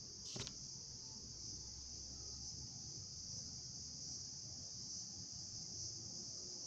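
Crickets trilling in one steady, unbroken high-pitched drone, with a single sharp click about half a second in.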